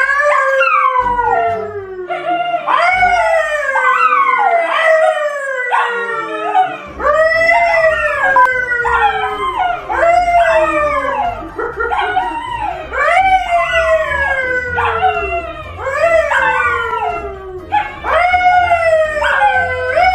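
A dog howling over and over, each howl about a second long, jumping up in pitch and then sliding down.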